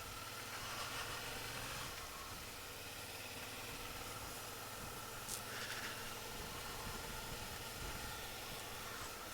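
Suzuki V-Strom 650's V-twin engine running under a steady rush of wind and road noise, heard low and muffled.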